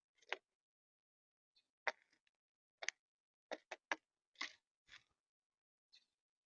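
A series of about nine short, sharp taps or clicks at irregular intervals, several in quick succession in the middle.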